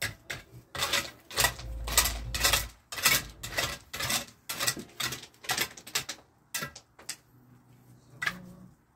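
Gravel and stones clattering and scraping as they are shovelled and tossed onto a masonry roof, in a rough, irregular run of rattles several a second that thins out near the end.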